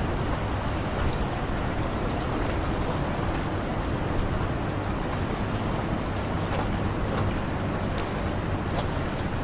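Steady rumble of boat engines running, mixed with waves breaking and wind on the microphone.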